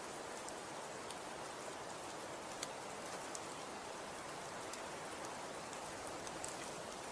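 Steady patter of falling precipitation on a surface: an even hiss with scattered light ticks.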